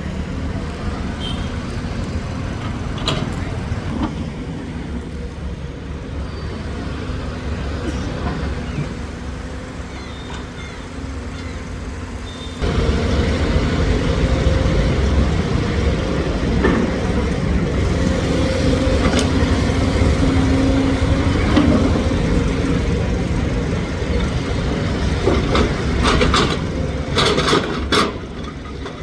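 Heavy engine running steadily, stepping up louder about thirteen seconds in, with a few sharp clanks near the end.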